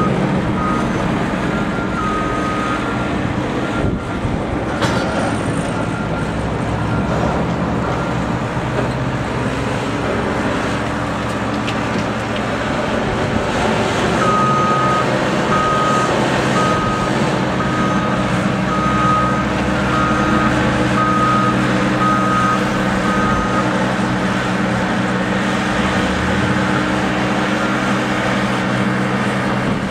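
Engine of a heavy snow-clearing vehicle running steadily, its reversing alarm beeping about once a second for some ten seconds in the middle, with a few fainter beeps near the start.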